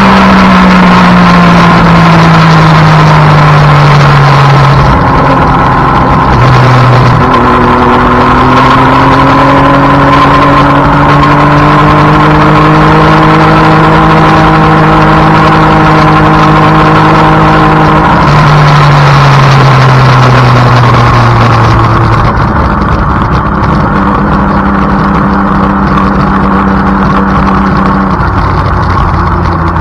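Triumph Daytona 675 inline-three engine under a loud rush of wind. The revs fall over the first few seconds, then climb slowly and steadily for about ten seconds, drop again, and settle at a lower, steadier note near the end.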